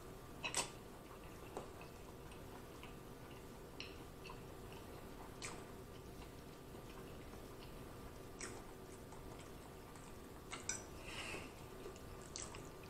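Faint close-up chewing of a mouthful of sausage, with scattered short wet clicks and smacks from the mouth.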